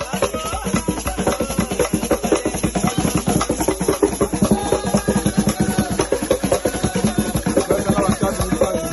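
Fast, dense drumming with many strokes a second, with singing voices over it.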